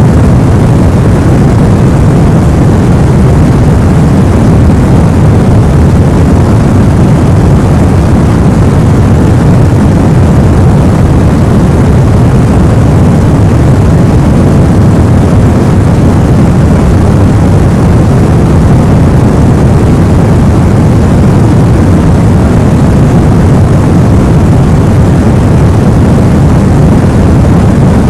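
Steady baby-sleep white-noise track, an even hiss weighted heavily toward the low end like a deep rumble, with no changes in it.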